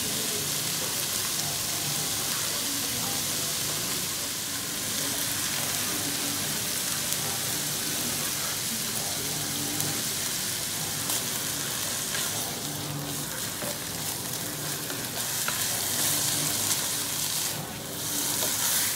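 Shredded meat sizzling steadily as it is sautéed with soy sauce in a nonstick pan, stirred and turned with a spatula.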